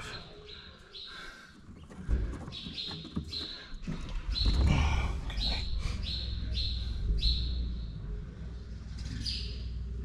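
A small bird chirping over and over, short high notes about two a second, with a steady low rumble that comes in a couple of seconds in.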